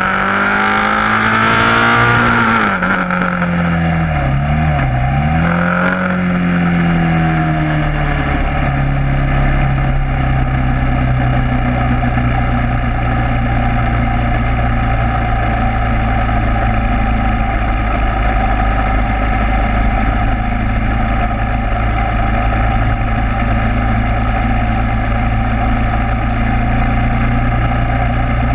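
KTM Duke 690's single-cylinder engine through an Akrapovič exhaust, revving up and down several times over the first eight seconds or so, then running at a steady engine speed.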